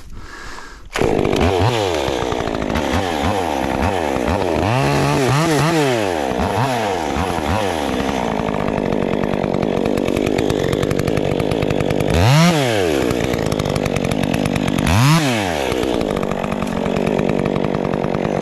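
Gas chainsaw starts up about a second in and is revved up and down several times. It then runs at high throttle, bogging into a cut of maple, with two more short rev swings near the end.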